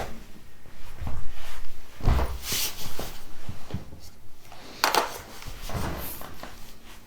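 A series of knocks, scrapes and rustles of household objects being handled and moved about, with the strongest about 2 seconds in and again about 5 seconds in.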